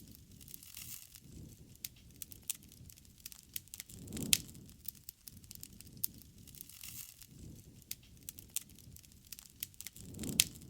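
Wood campfire crackling, with irregular sharp pops over a low rush of flame. The rush swells twice, about four seconds in and near the end, each time with a louder pop.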